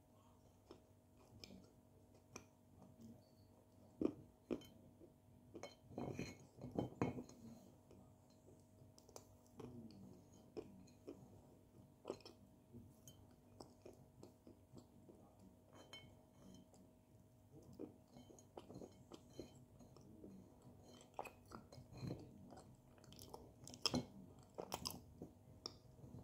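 Quiet close-up chewing and crunching of dry edible clay chunks: gritty crumbling bites between soft chews, with a cluster of louder crunches about six seconds in and again near the end.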